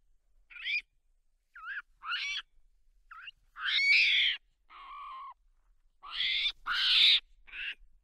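Long-tailed macaques giving a series of short high-pitched calls, each bending up and down in pitch, with two louder, longer calls about four and seven seconds in.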